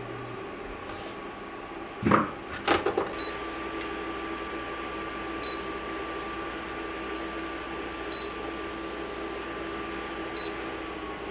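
A steady electrical hum from a running appliance, with a few clicks and knocks about two to three seconds in and a short high beep every two to three seconds.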